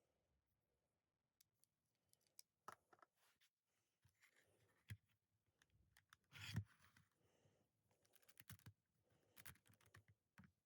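Faint, scattered clicks of Lego plastic parts being handled and pulled apart, with a louder cluster of clicks about six and a half seconds in.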